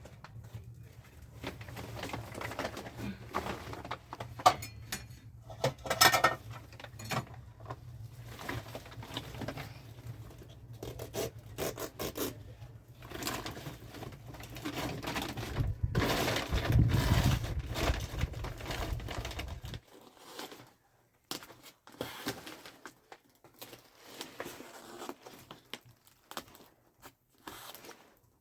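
Scraping and rustling handling noises with scattered sharp clicks. A low rumble runs underneath and cuts off suddenly about twenty seconds in.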